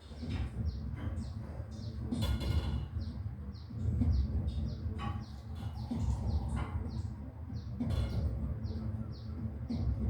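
A bird calling a long, even series of short high notes, about two a second, over a steady low rumble.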